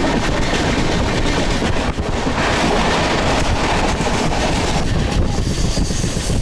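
Passenger train running, with a steady rumble and rattle from the carriage on the rails and wind buffeting the microphone.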